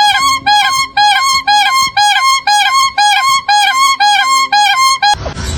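A bird calling in a fast run of short, pitched notes, about four a second, alternating between a lower and a higher note. About five seconds in it cuts to a different, wavering cry that rises and falls in pitch.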